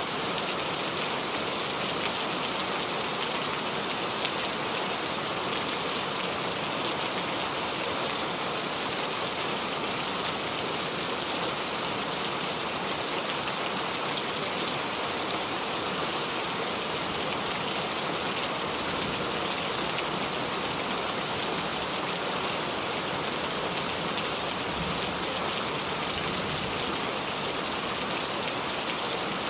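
Steady rain falling on a roof, an even hiss of many drops that does not change.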